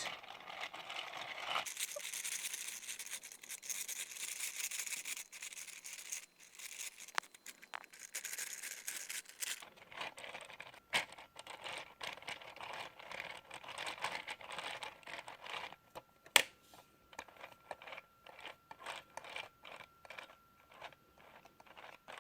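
LEGO plastic pieces being handled and fitted: rustling and scraping for the first several seconds, then a scatter of light clicks and taps, with one sharp click about two-thirds of the way through.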